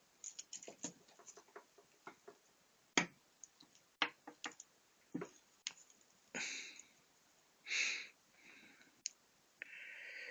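Small hand tools being handled: scattered clicks and knocks of electrician's test lamps, the sharpest about three and four seconds in, with a few short hissy noises in the second half.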